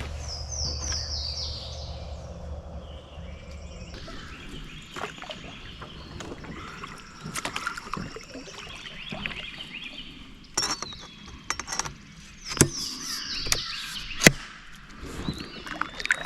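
Kayak on the water: paddle strokes and water sounds with a few sharp knocks. Twice, a bird sings a short run of high notes that step down in pitch.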